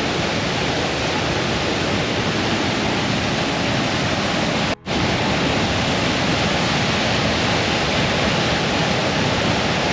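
Close-up roar of a powerful mountain waterfall, a steady, loud rush of falling water. The sound cuts out for a split second just under five seconds in, then carries on unchanged.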